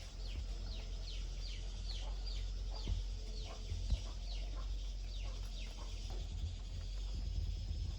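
Birds calling, a run of short, high chirps that each fall in pitch, about two or three a second, thinning out near the end, over a steady low rumble. A couple of sharp knocks about three and four seconds in.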